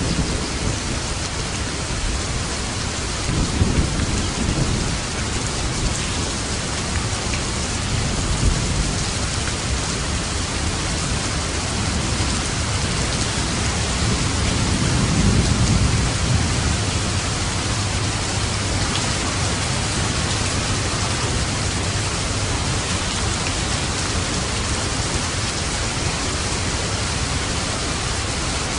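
Steady rain falling, with low rolls of thunder swelling up about four times in the first half.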